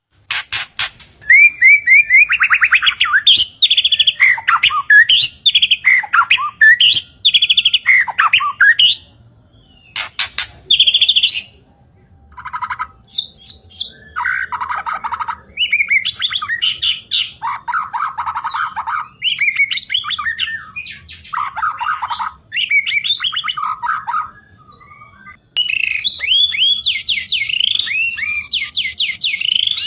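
White-rumped shama (murai batu) in full, continuous song: loud, varied phrases of fast trills, gliding whistles and chattering notes, coming in bursts of one to two seconds with short pauses between them. A faint steady high tone runs underneath.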